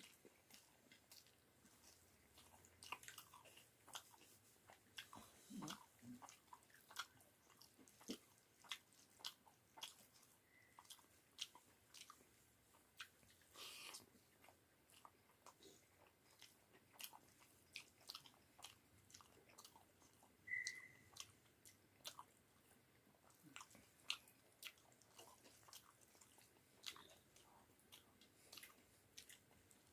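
Faint sounds of a person eating potato pakoras with rice and dal: irregular chewing and biting, with short crunchy clicks.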